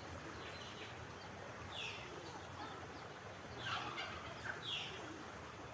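Birds calling outdoors: a few short, downward-sweeping calls over a steady background hiss.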